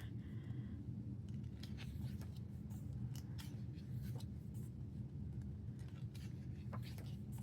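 Faint, scattered rustles and light clicks of K-pop album photocards and photobook pages being handled, over a steady low hum.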